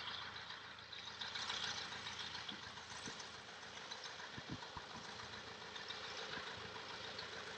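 A light aircraft's piston engine running at a distance, a faint steady drone.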